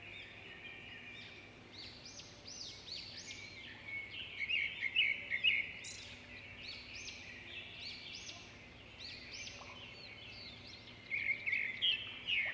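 Many small birds chirping and twittering, their calls overlapping densely, busiest about four to six seconds in and again near the end.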